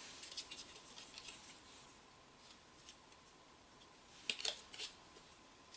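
Faint rubbing and light clicks of Teflon tape being wrapped onto the threads of a brass boiler drain, with a few sharper clicks of the fitting being handled about four and a half seconds in.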